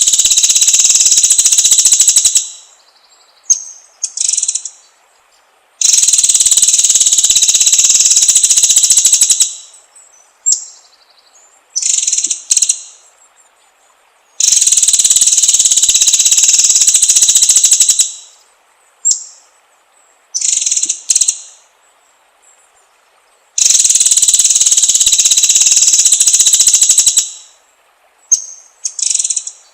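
Songbird singing, a masteran recording for training caged birds: four long, loud, rapid trills, each about three and a half seconds, at regular intervals, with short high whistled notes between them.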